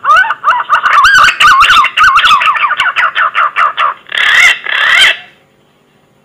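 Green pigeon (punai) song on a hunter's lure recording: a fast run of wavering, fluting whistles for about four seconds, then two louder rising notes, ending about five seconds in.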